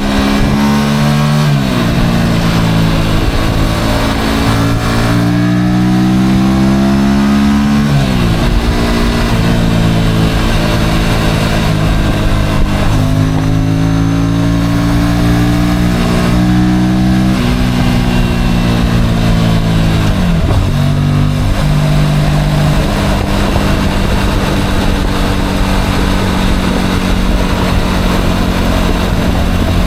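Motorcycle engine heard from on board, rising in pitch and falling back sharply several times, then running at a steady pitch for the last several seconds, over steady road and wind noise.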